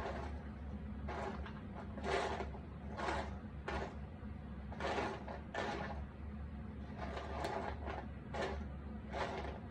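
Cardboard jigsaw puzzle pieces being handled by hand: short rustles and scrapes about once a second as pieces are picked up, slid and set down, over a steady low hum.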